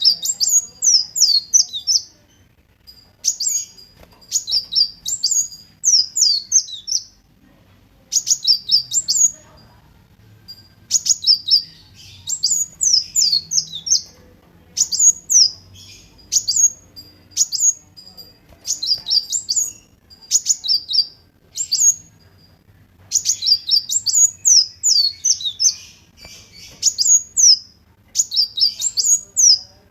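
Kolibri wulung sunbird singing: repeated quick phrases of high, thin chirps and sharply sweeping notes, each lasting a second or two with short pauses between.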